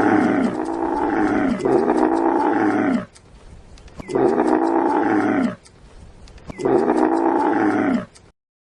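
A big cat roaring over and over: long, loud calls with short gaps between them, each one sliding down in pitch as it ends.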